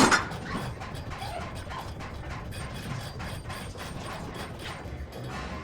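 Gym exercise machine clicking and rattling through a set, with a loud knock right at the start.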